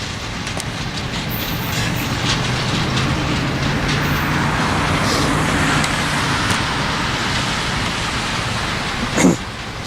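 Cuyahoga Valley Scenic Railroad train running by, a steady rumble with a low engine hum in the middle. A short sharp thump comes near the end.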